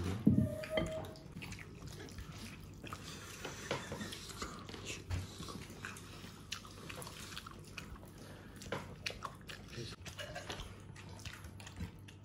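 A person chewing and eating rice and curry: scattered small clicks and smacks over a faint low hum, the loudest knock just after the start.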